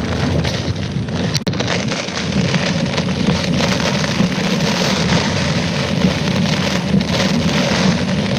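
Heavy typhoon rain beating on a moving car, over steady tyre and road noise, with a single sharp click about a second and a half in.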